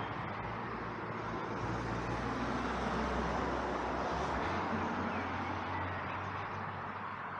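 Road traffic noise: a steady wash of passing vehicles with a low engine hum. It swells a little midway and eases off near the end.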